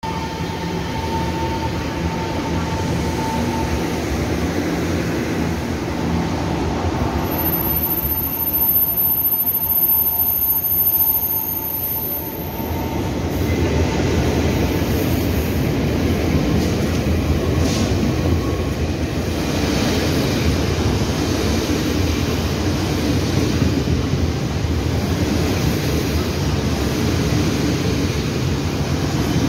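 Electric locomotive E408 of Taiwan Railways hauling a Fu-Hsing express train into the station: a steady, loud rumble of wheels and running gear. A thin, steady whine sounds over about the first twelve seconds.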